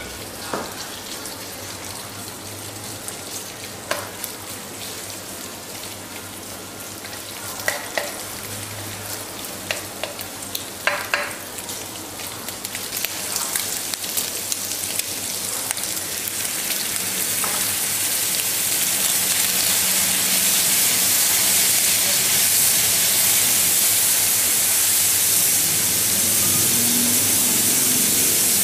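Thinly sliced pork frying in hot oil with chopped garlic in a wok, a steady sizzle that grows steadily louder through the second half. In the first half a spatula stirring the meat knocks and scrapes against the pan a few times.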